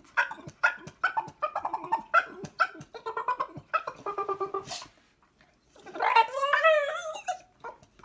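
A dog vocalising in a rapid run of short, pitched yips and whines, then after a short pause one longer, wavering whine near the end.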